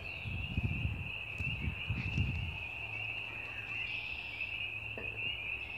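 A spring chorus of frogs calling: many high-pitched trilling calls that merge into one unbroken, shimmering drone. Low rumbling on the microphone during the first two and a half seconds.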